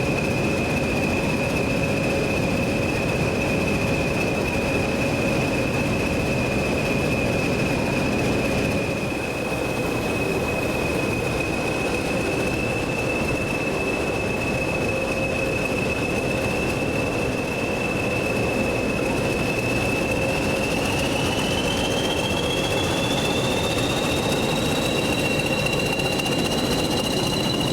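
Train moving at close range: a steady rumbling noise with a sustained high-pitched squeal. About three-quarters of the way through, a second high tone rises in pitch and then holds.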